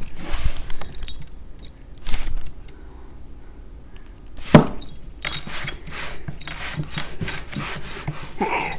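Chihuahua puppy scuffling in a play-fight, with rustling, jingling and clinking and a sharp knock about halfway through.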